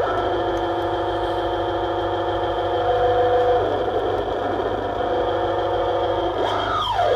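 Harsh-noise drone from an effects pedal chain (delays, filter and graphic EQ) through a small Danelectro Honeytone amp: sustained, stacked, buzzing tones over a steady low hum. About six and a half seconds in, the pitch sweeps sharply downward.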